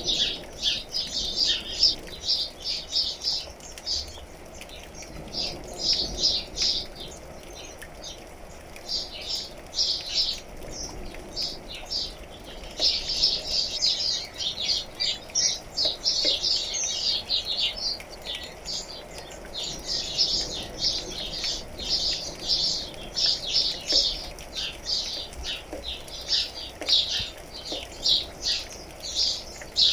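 Songbirds chirping in fast runs of short high notes, coming in bursts with brief lulls, over a faint steady background haze.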